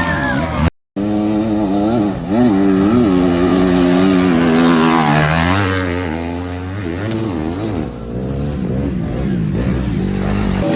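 Motocross bike engines revving up and down again and again as they race. A moment of silence just under a second in, then the revving resumes.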